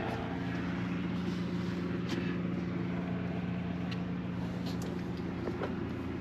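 An engine running steadily at an even pitch, with a few faint ticks.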